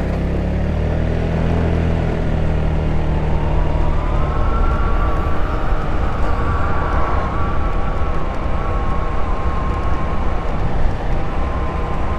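Ice Bear Hawkeye 150cc scooter's GY6 single-cylinder four-stroke engine running under way. Its pitch rises as it speeds up a couple of seconds in, then holds fairly steady, over a low wind rumble.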